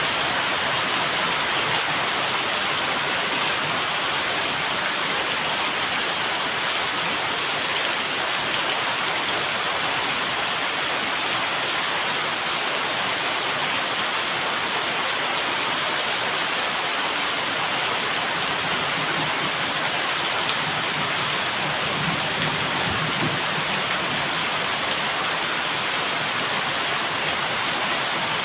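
Steady rainfall, an even hiss of rain, with a faint low rumble about two-thirds of the way through.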